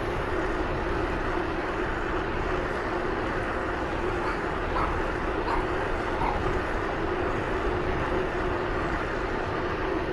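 Steady running noise of a moving vehicle, a constant hum with wind rush, and three faint short sounds about halfway through.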